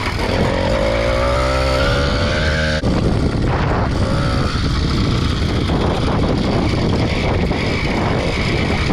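80cc two-stroke motorized bicycle engine revving, its pitch rising over the first three seconds, then switching abruptly to a rough, noisy roar that continues.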